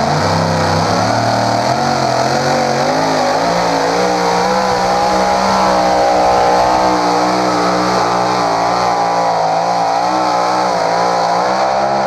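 Engine of a 1932 roadster puller running hard under load as it drags the pulling sled, its pitch wavering up and down. It cuts off abruptly near the end.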